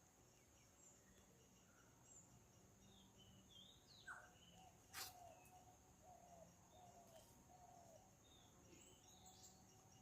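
Faint outdoor birdsong: scattered short chirps from several birds, and in the middle a run of about five repeated lower notes, over a steady high-pitched hum. A single sharp click sounds about halfway through.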